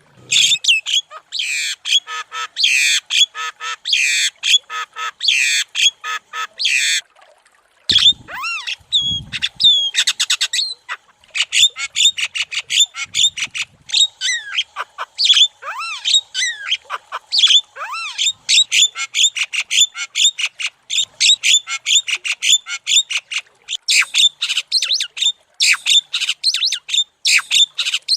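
Javan myna (jalak kebo) singing without let-up: a fast, unbroken run of short chattering notes mixed with clear gliding whistles. There is a brief pause about seven seconds in.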